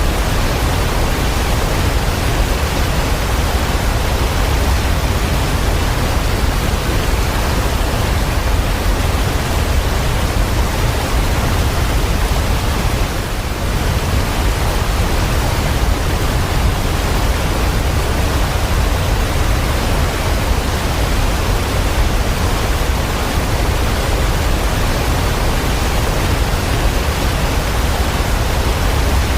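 Steady, even rushing noise of falling or flowing water, dipping briefly about 13 seconds in.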